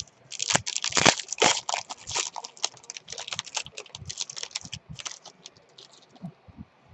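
Baseball card pack wrappers crinkling and tearing as packs are opened, a dense run of sharp crackles that thins to a few scattered clicks after about five seconds.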